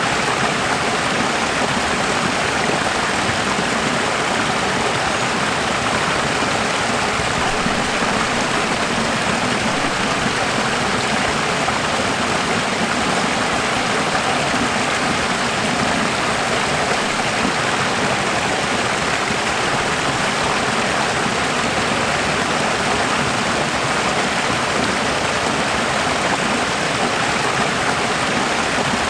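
Running water: a steady, even rush of a stream or flowing water with no pauses or changes.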